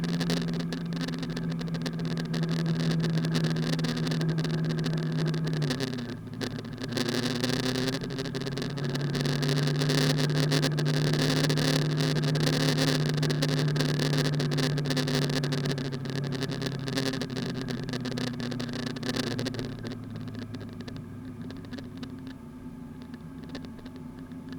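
Car engine running steadily while driving. About six seconds in, the engine note drops suddenly to a lower pitch, then it holds steady and grows quieter over the last few seconds.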